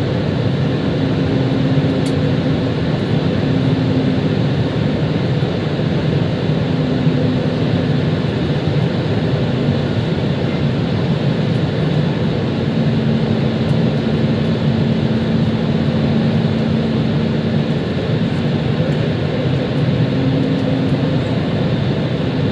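Airbus A320 cabin noise heard from inside the cabin: a steady rush of engine and airflow noise, with a low hum that comes and goes.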